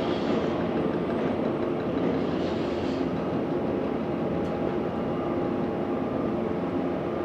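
Jet airliner engines running, a steady broad rumble with a few faint steady tones in it.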